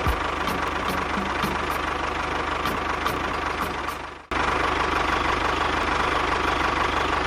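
Small engine running steadily with a fast, even pulse. It breaks off abruptly for an instant about four seconds in, then carries on.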